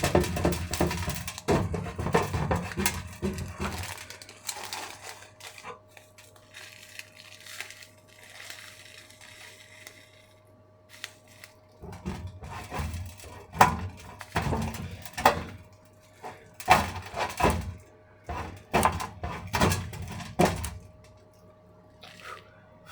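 Kitchen handling noises from stuffing a raw chicken with sage and onion stuffing: a few seconds of rustling and scraping, a quieter lull, then a run of sharp knocks and clatters of a dish and utensils.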